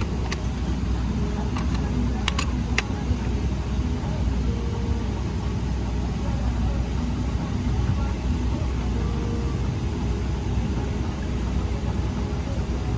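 Steady low rumble of an airliner cabin at the gate, with faint background voices and three sharp clicks in the first three seconds.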